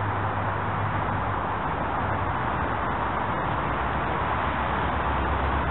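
Distant electric commuter train approaching: a steady low hum under an even hiss, the hum dropping slightly in pitch near the end.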